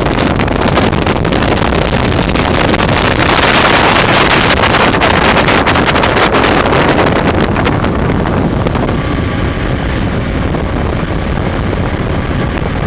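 Motorboat under way, its engine running steadily, with wind buffeting the microphone. The rush swells for a few seconds and eases a little after the middle.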